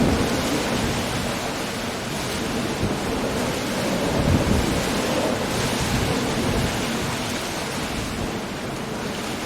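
Coastal storm: steady heavy rain and surf breaking on a rocky shore, with a deep rumble that swells about four seconds in and fades.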